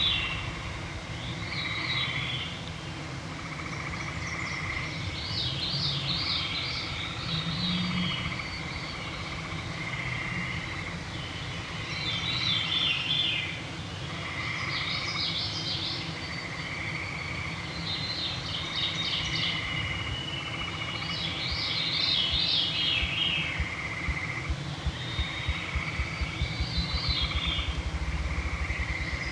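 Evening forest chorus: songbirds sing short phrases every few seconds, some falling in pitch. Underneath runs a steady series of short trills about every two seconds, with a low rumble below.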